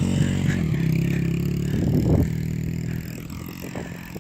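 Honda XR100 dirt bike's single-cylinder four-stroke engine running at steady revs, with a short blip of throttle about two seconds in. Its sound dies down near the end.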